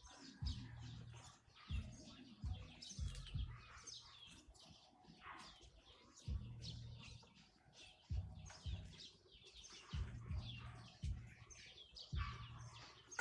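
Small birds chirping in quick, short high notes throughout, with low thumps or rumbles recurring every second or so underneath.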